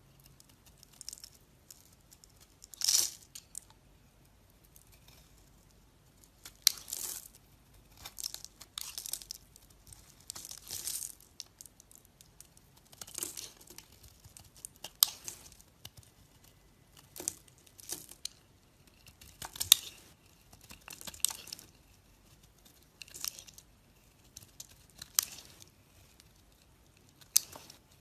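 Knife cutting and shaving into a bar of soap: a series of short, crisp scraping cuts, one every second or two, with quiet gaps between.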